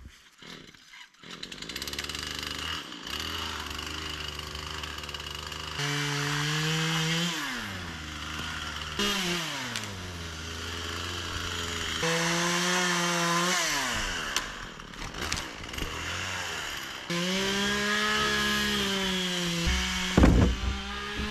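Husqvarna gas chainsaw cutting wood: it runs at idle, then is throttled up again and again, its pitch sagging as the chain bogs in the cut and rising again. A few heavy thumps near the end.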